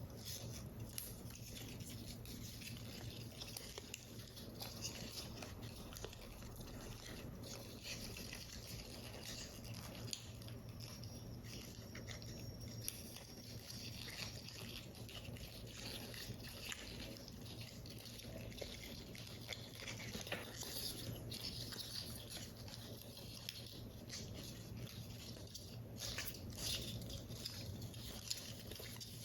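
Paper model parts being handled close to the microphone: light rustling, scratching and small irregular taps of paper and card throughout, over a low steady hum.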